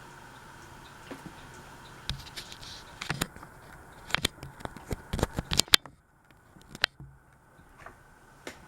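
Ceiling fan running with a steady hum, broken by a run of sharp clicks and knocks in the middle. The hum drops out briefly about six seconds in and comes back fainter.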